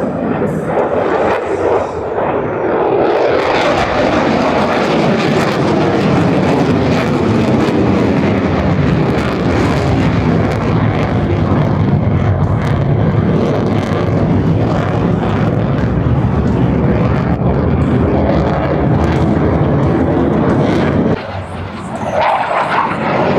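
Low-flying aircraft engine noise, loud and continuous, its pitch bending as the aircraft passes. It drops away briefly near the end.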